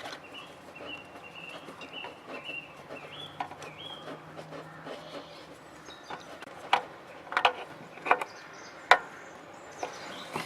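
A bird singing in the background for the first few seconds. A little past halfway come four loud, sharp knocks about a second apart, then two fainter ones, as the old oil filter is worked off over the drain pan.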